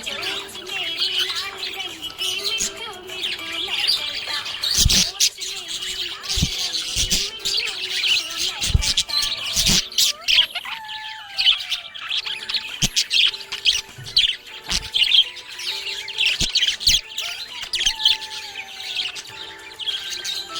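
Budgerigar chirping and warbling in a rapid, continuous chatter, with a few sharp clicks now and then.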